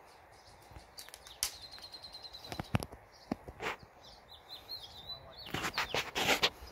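A small bird singing: a high, thin trill held for about a second, then a wavering warble. Scattered sharp clicks and crunches run through it and thicken into a loud flurry near the end.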